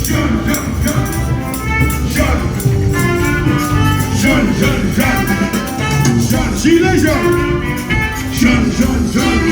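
Loud carnival band music: a steady, fast rhythm of drums and hand percussion with a melody line above it.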